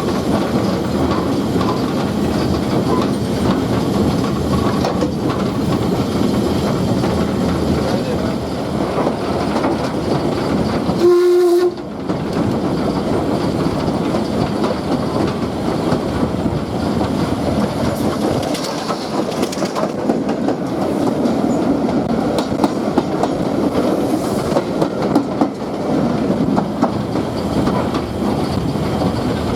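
Steam-hauled train running along the track, with a steady rumble and clatter of wheels over rail joints. A short whistle-like tone sounds about eleven seconds in, followed by a momentary break.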